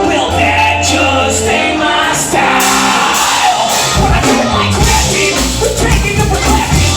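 A live band playing loudly, with a heavy bass line and drums, and singing and shouts over it.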